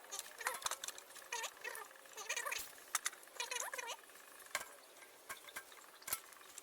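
A strip of old tyre rubber squeaking in short bursts as it is forced through a small hole in a bamboo shaft, with a few sharp clicks and knocks of handling.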